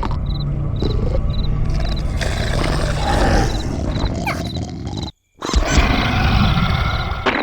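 Cartoon sound effect of a low animal roar, cut off abruptly about five seconds in; a different noisy sound effect follows after a brief silence.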